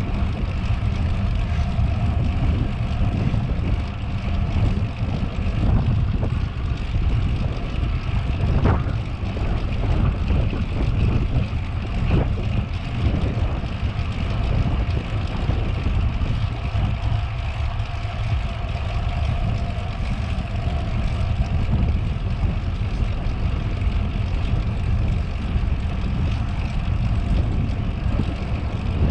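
Wind rumbling steadily on the microphone while riding a bicycle, mixed with tyre noise on the pavement, with a couple of brief clicks or rattles about nine and twelve seconds in.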